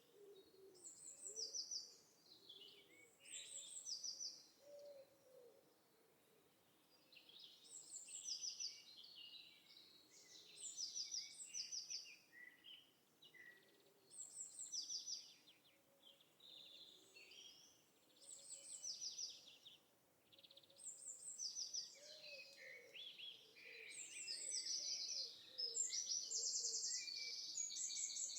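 Wild birds singing: short, high, trilled phrases repeating every two to three seconds, busiest near the end, with faint low calls underneath.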